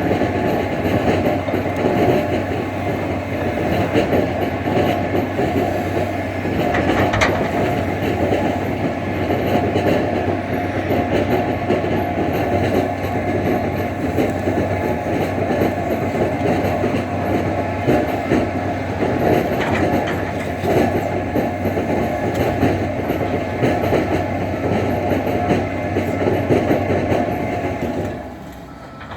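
Tractor loader's diesel engine running steadily, with a clattering rattle over its hum, dropping off sharply near the end.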